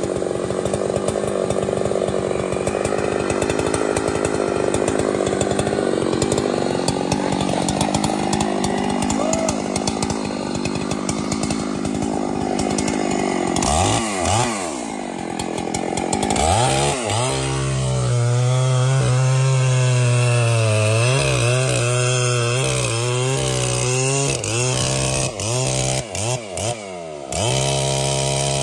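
Two-stroke chainsaw cutting through a large tree trunk, its engine running hard under load; about halfway through its engine note clears and wavers up and down as the saw is revved.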